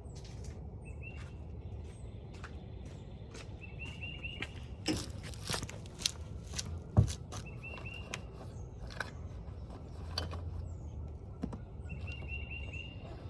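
A small bird chirping in short rapid runs of high notes, repeated several times. Scattered clicks and knocks sound over a steady low rumble; the loudest knock comes about seven seconds in.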